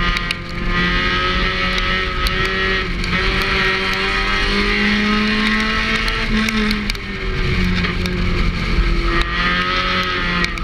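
A Thunder-class race car's engine heard onboard at racing speed. Its note rises and falls as the car accelerates and lifts, climbing to a peak around the middle and dipping near the end.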